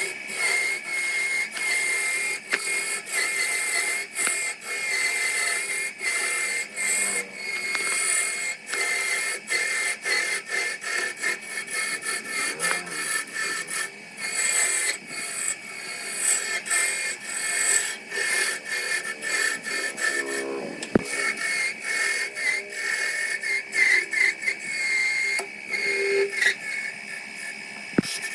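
A power tool working wood, its motor holding a steady high whine under many short, uneven scraping contacts.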